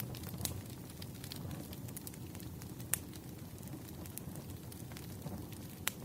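Wood fire crackling: a steady low rumble of burning logs with scattered sharp pops, two louder ones about three seconds in and near the end.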